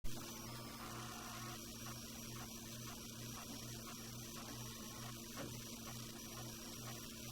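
Steady electrical hum with a faint high-pitched whine, its low part pulsing about twice a second.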